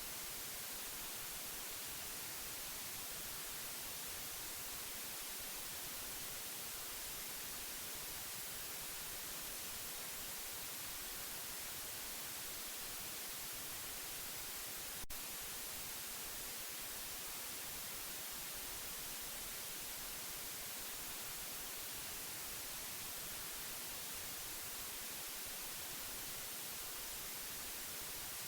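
Steady white noise hiss, even and unchanging, with most of its energy in the high end. A single brief click about halfway through.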